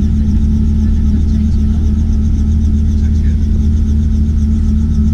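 Robinson R44 Clipper II helicopter's piston engine and rotors running steadily, heard from inside the cabin as a loud, even drone with a deep hum.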